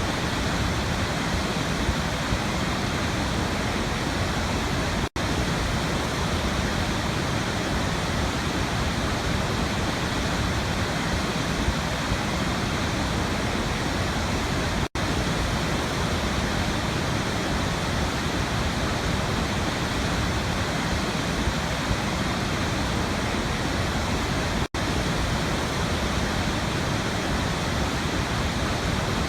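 Waterfall: a steady, even rush of falling water, broken by three very brief dropouts about ten seconds apart.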